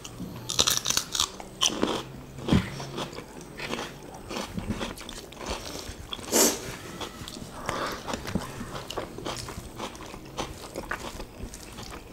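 Close-miked eating: chewing with crisp, crunchy bites of fresh cucumber, irregular throughout, the loudest crunch about six seconds in.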